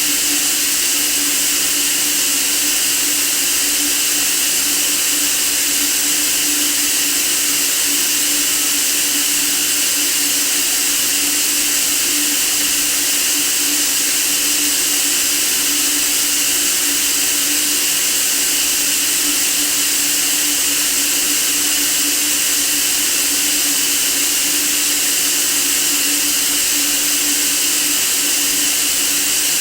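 Steady white noise for sleep: an even, unchanging hiss with a steady hum beneath it.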